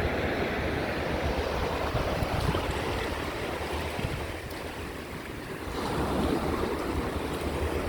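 Small surf waves washing on a sandy beach, with wind rumbling on the microphone. The wash eases about four and a half seconds in and builds again a second or so later.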